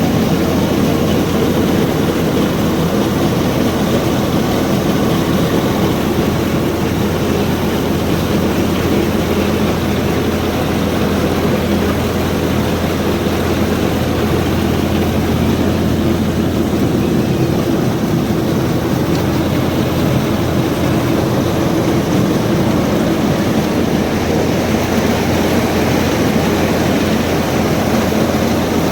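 Tractor engine running steadily while powering a paddy threshing machine: an unbroken mechanical din over a constant low hum.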